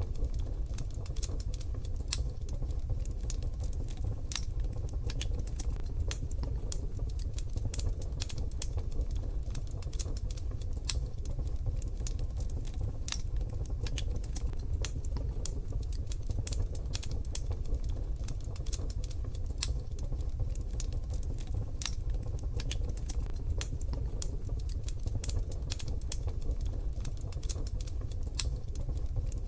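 Wood fire crackling, with dense irregular sharp pops and snaps over a steady low rumble.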